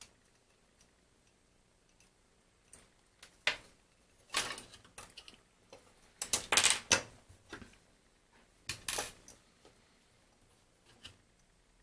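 Irregular clicks, taps and short scrapes of the small parts of a Bang & Olufsen BeoCom 2 phone being handled during repair, in a few brief clusters with quiet between them.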